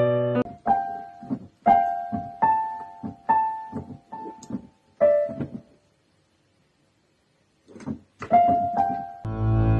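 Piano keyboard notes struck one at a time, each ringing out, about one a second. They stop for almost two seconds past the middle, then a few more notes follow, and fuller music with deep notes comes in at the very end.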